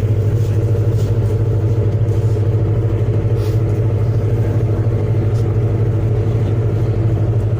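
A ferry's diesel engine running steadily: a loud, low drone with a fast, even throb.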